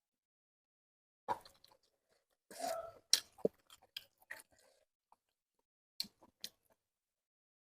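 Close-up chewing and mouth sounds of a person eating: wet smacks and crunches come in short clusters, busiest in the middle, with a couple of sharp clicks near the end.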